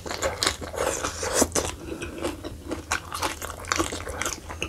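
Close-miked eating sounds: a person chewing lamb head meat and sucking it off the fingers, an irregular run of mouth clicks.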